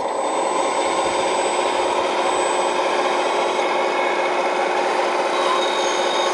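Small motor and hydraulic pump of a 1/14-scale RC construction machine running steadily, with a continuous raspy, grinding noise.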